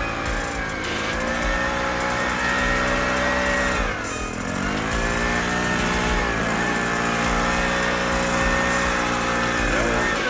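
A small motor-driven machine runs steadily, its pitch sagging briefly under load and recovering, about four seconds in, again a couple of seconds later, and near the end.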